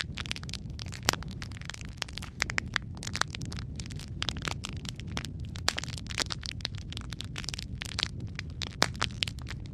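Wood fire crackling in a fireplace: a steady low rumble of flames with many irregular sharp pops and snaps, a few louder than the rest.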